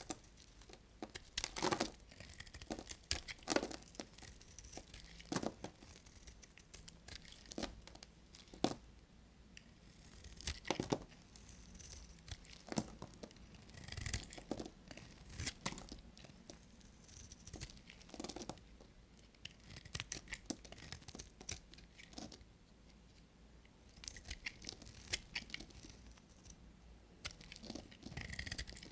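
Bars of soap being cut: repeated crisp, crackling cuts that come in clusters, with short pauses between them.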